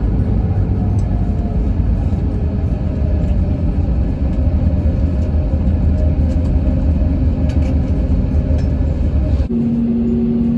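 Loud, steady low rumble of a jet airliner heard from inside the cabin, with faint tones drifting slowly. About nine and a half seconds in it cuts abruptly to a steadier hum with one clear tone.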